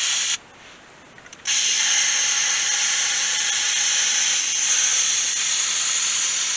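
Air hissing out of a tractor tire through the bleeder valve of a valve-stem air/water fill adapter as the tire is filled with liquid ballast. The hiss cuts off about a third of a second in, a couple of light clicks follow, and it resumes about a second and a half in and runs on steadily.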